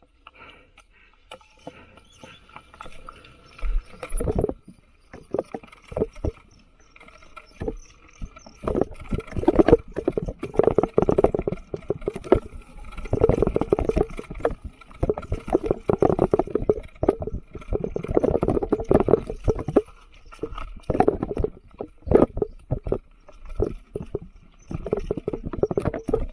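Mountain bike rattling and clattering as it rides over a rough, rocky trail, with dense bursts of knocks from the frame and chain where the ground gets rougher.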